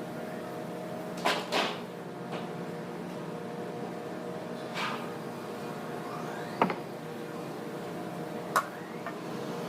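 Steady hum of running machinery with a few sharp knocks and clacks scattered through it, the kind of clatter wood or tools make when handled.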